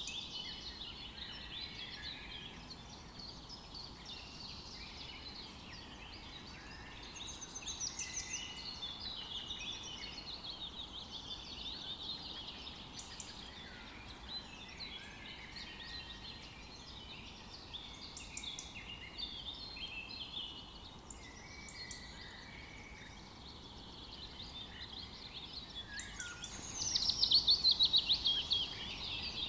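Many small birds chirping and twittering together in a steady chorus, with a louder burst of rapid repeated notes near the end.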